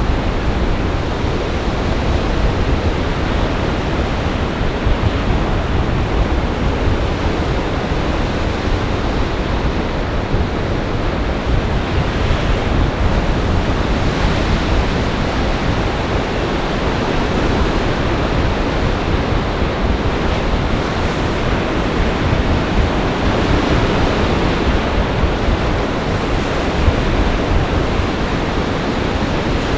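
Storm waves on Lake Michigan surging and breaking in a gale, a steady wash of surf with wind rumbling on the microphone.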